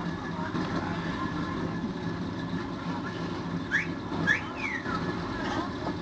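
Motor vehicle engine running steadily, with three short whistle-like chirps, two rising and one falling, a little past the middle.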